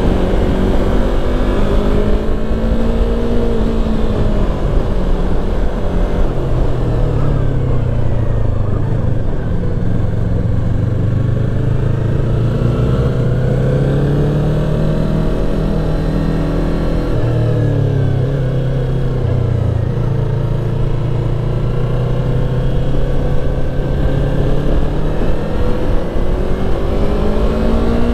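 Motorcycle engine being ridden hard, its pitch climbing and dropping again and again as it revs up and shifts through the gears.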